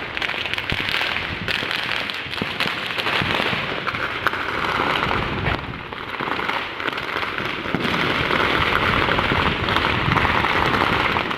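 Many firecrackers and fireworks going off all around at once: a continuous dense crackle of small sharp bangs with no break.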